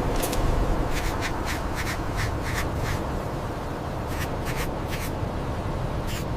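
Steady rushing noise with short crackling clicks at an uneven pace, a few a second.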